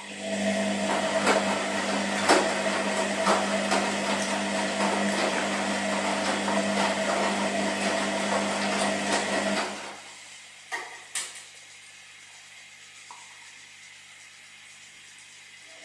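Washing machine running: a steady motor hum with the drum tumbling and light knocks. About ten seconds in the motor stops, leaving a quiet hiss broken by two clicks, as in a pause between drum turns.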